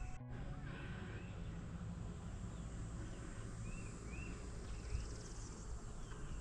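Outdoor woodland ambience with a low steady rumble. A bird gives several short, arched chirps around the middle.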